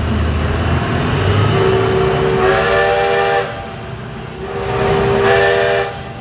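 Steam whistle blown twice: a first blast of about two seconds that swells into a fuller chord partway through, then after a short gap a second blast of about a second and a half. A low steady rumble sits under the first second.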